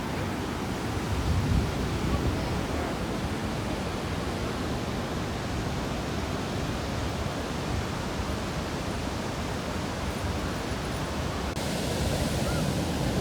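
Large waterfall rushing: a steady, even roar of falling water. Near the end its hiss turns brighter.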